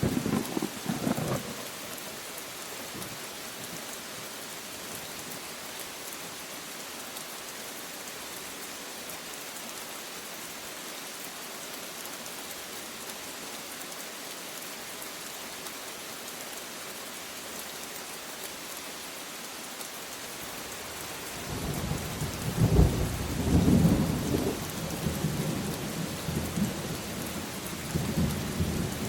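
Steady heavy rain with a brief rumble of thunder at the start. Later a longer peal of thunder rolls in, swelling several times.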